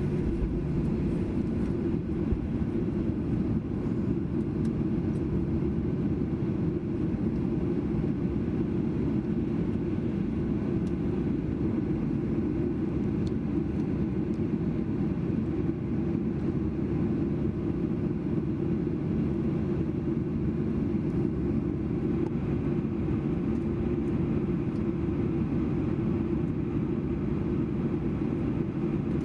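Steady cabin noise inside a Boeing 737-800 airliner: an even low rumble of engines and air, heard from a passenger seat.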